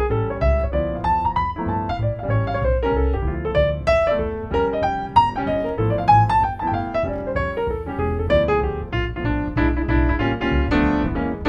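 Instrumental break of a swing song played on piano: quick runs of melody over a steady low bass part.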